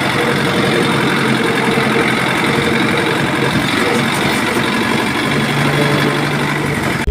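A motor running steadily, a dense rattling mechanical noise at an even level.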